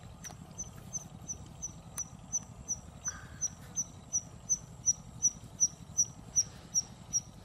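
A small bird repeating a short, high chirp at an even pace, about three times a second.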